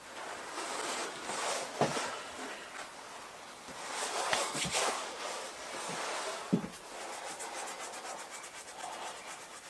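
Handling sounds of a sharpening stone being pressed and worked onto epoxy-coated leather: rubbing and scraping with three sharp knocks, then a fast, even run of small scratchy ticks near the end.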